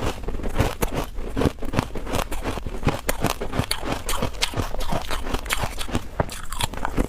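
Freezer frost crunching as it is bitten and chewed: a quick, uneven run of sharp crunches, several a second.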